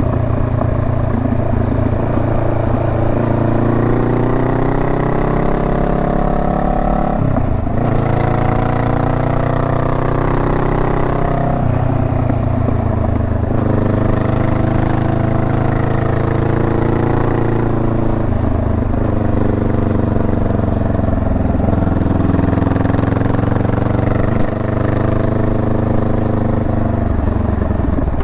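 Honda Rebel 500's parallel-twin engine on the move: its pitch climbs as it pulls and drops back at each gear change, several times over.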